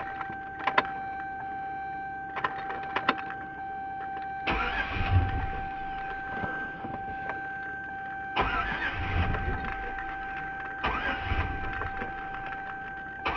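Chevy engine being cranked on the starter in several long tries without catching, after a few sharp clicks near the start, over a steady high tone. The mechanic suspects the fuel pump has failed.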